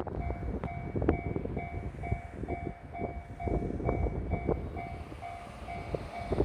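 Railway level-crossing alarm ringing, a two-tone electronic chime repeating about twice a second, heard through strong wind gusts buffeting the microphone with a low rumble.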